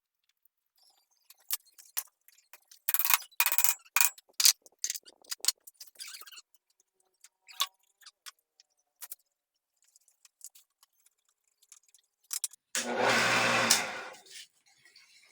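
Scattered metallic clinks and taps of tools and parts being handled while a Sanyo water pump is being worked on. A loud noise about a second long follows near the end.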